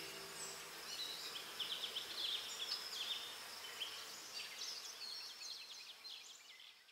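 Natural outdoor ambience: birds chirping in short, quick phrases over a steady high insect buzz. It fades out near the end.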